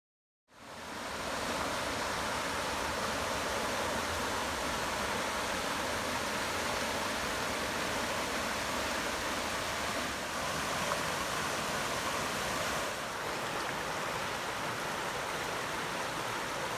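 Steady rush of flowing water from a stream or small waterfall, fading in from dead silence about half a second in.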